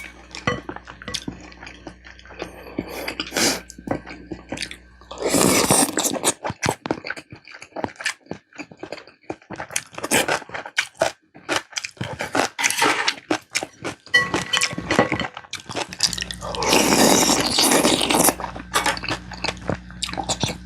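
Close-miked mouth sounds of eating: chewing with many sharp wet clicks. Two longer, louder rushes of sound come about five and about seventeen seconds in.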